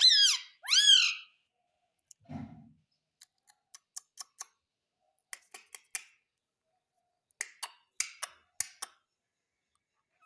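Pet parrot giving two loud whistled calls that swoop in pitch, then a scattering of short clicks and chirps.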